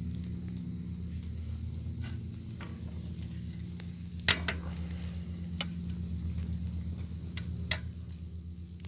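Bacon sizzling over a wood fire: a steady high hiss with scattered crackles and sharp pops, the loudest about four seconds in and two more near the end, over a steady low hum.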